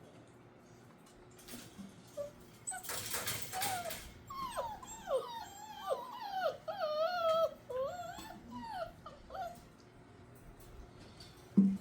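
Six-week-old puppies whining and whimpering in a string of short, wavering high cries, after about a second of rustling noise. A short thump near the end.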